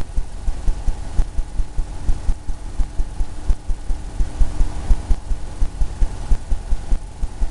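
Oil-paint brush tapping and dabbing against a canvas on its easel: quick, uneven low thumps several times a second.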